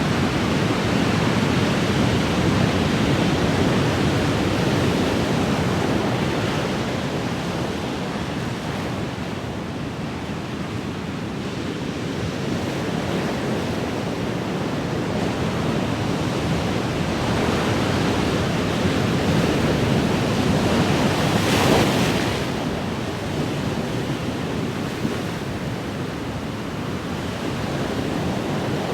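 Ocean waves breaking and washing in a steady roar of surf, swelling and easing slowly, with one sharper wave crash about two-thirds of the way in.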